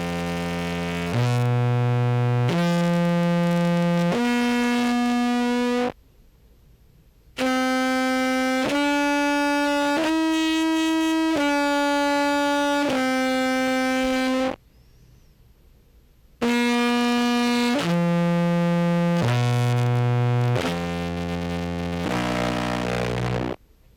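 Contrabass clarinet played through a pickup and an effects pedal chain, giving a heavily processed, buzzy tone. It plays three phrases of held notes about a second and a half each: the first climbs from very low, the second rises and falls in the middle register, and the third steps back down. Each phrase is separated by a pause of about a second and a half.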